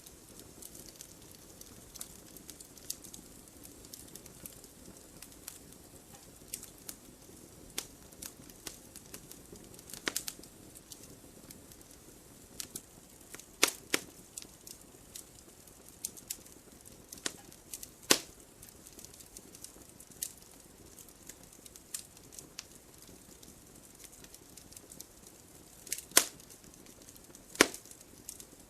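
Wood fire burning with a low steady hiss and irregular sharp crackles and pops, a few louder snaps among them.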